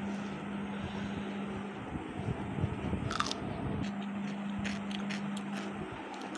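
Crunchy biting and chewing with scattered sharp clicks, over a steady low hum.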